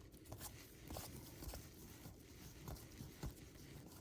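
Faint, scattered soft taps and rustles of 1992 Score baseball cards being flipped through by hand.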